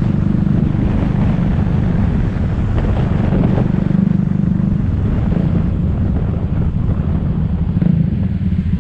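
Motor scooter engine running steadily while riding, with wind noise on the microphone.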